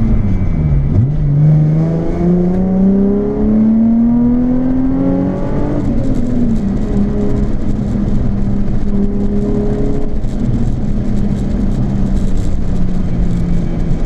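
Nissan 350Z's 3.5-litre V6 through a Japspeed aftermarket exhaust, revs climbing steadily under acceleration for about five seconds. About six seconds in the revs drop sharply, and the engine then settles to a steady cruise.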